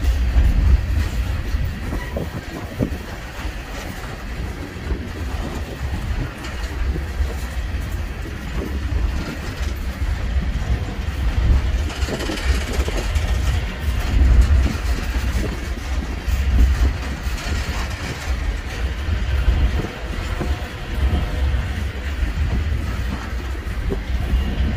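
Freight train rolling past, a continuous low rumble of the cars on the rails that swells a little in the middle.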